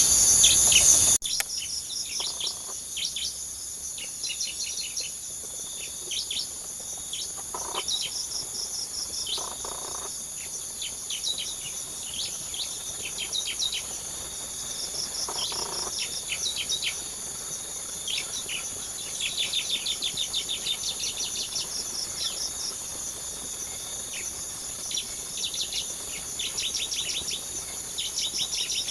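Small birds, bar-winged prinias (ciblek), calling in quick trains of high, rapid chirps over a steady high-pitched buzz of insects. In the first second a louder rush of sound cuts off abruptly.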